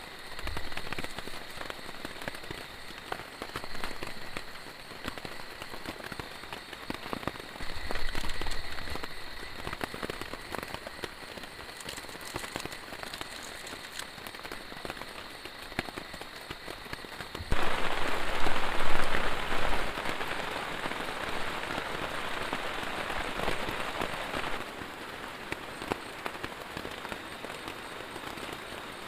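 Heavy rain falling, with many separate drops striking a surface. About two-thirds of the way in, a louder, denser hiss cuts in suddenly for about seven seconds, then stops just as suddenly.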